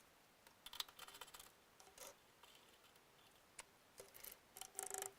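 Faint, scattered clinks and taps of small metal pieces being handled, a few with a short ring, as in sorting through scrap aluminum stock.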